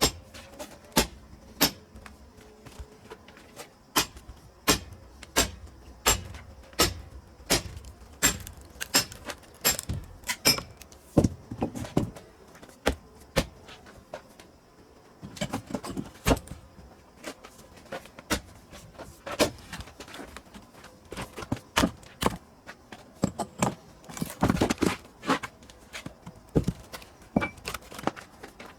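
A long irregular series of sharp wooden knocks and clacks, about one or two a second, with busier clattering around the middle and again near the end: pieces of split pine firewood being handled and knocking together.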